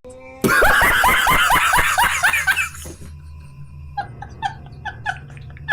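A burst of laughter: a fast run of 'ha-ha-ha' pulses, falling in pitch, for about two seconds. Near the end comes a run of short, high chirping sounds, about three a second.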